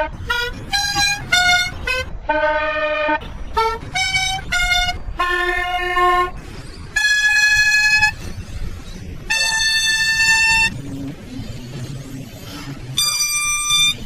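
A mini vuvuzela blown as a rough tune: a quick run of short toots at changing pitches, then a few longer held notes of about a second each, with a last high one near the end.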